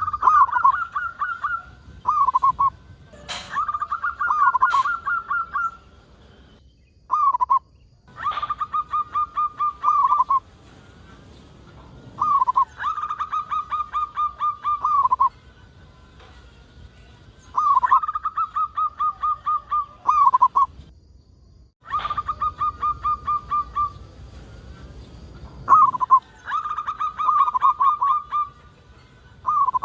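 Zebra dove (perkutut) singing its cooing song over and over: a rapid run of short notes ending in a trailing coo, each phrase about two to three seconds long and repeated every four to five seconds.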